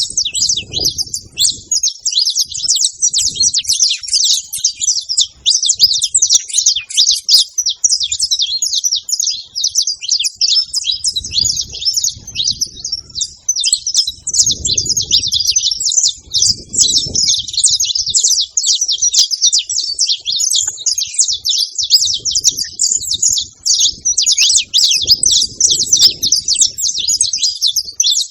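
Many saffron finches calling at once: a dense, unbroken chatter of overlapping high chirps, with a few soft low rumbles underneath.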